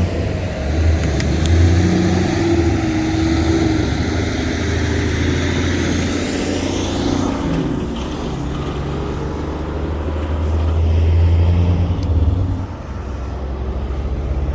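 Freight train rolling by slowly: a steady low diesel rumble mixed with wheel and rail noise.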